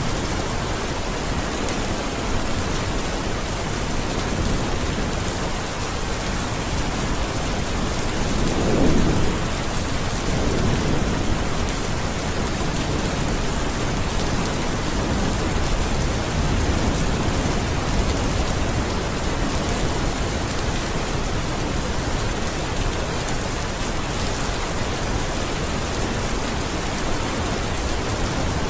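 Steady rain falling, with a low roll of thunder about nine seconds in and a fainter rumble a little later.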